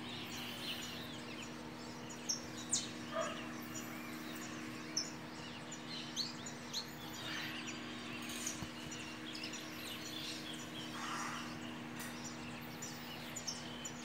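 Several small birds chirping and singing in the morning, short scattered calls and trills throughout, over a faint steady low hum.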